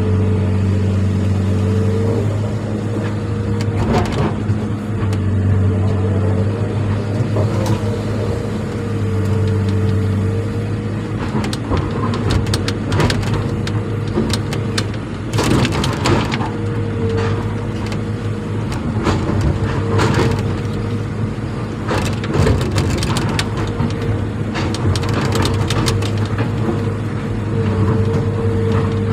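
An engine running steadily, with spells of crunching and cracking over it several times.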